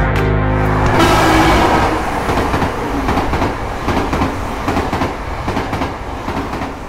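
A train running with its wheels clattering on the rails; music ends about a second in, and the train sound fades out toward the end.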